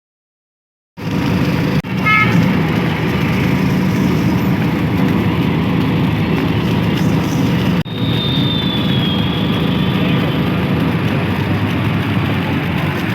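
Steady motor-vehicle running and road noise, starting after a second of silence and broken by two brief cuts, with a faint falling high tone about eight seconds in.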